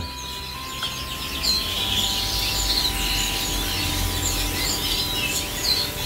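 Many canaries chirping and trilling together, with a low rumble underneath.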